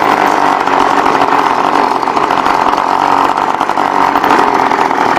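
Small two-stroke engine of a motorized bicycle running steadily while riding, its rapid firing holding an even pitch.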